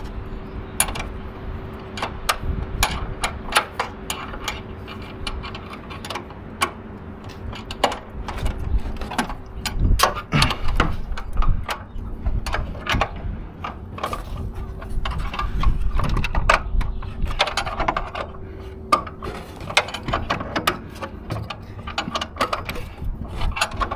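Hand tools working on metal parts: irregular sharp clicks and clinks, with a faint steady hum that drops out for a while in the middle.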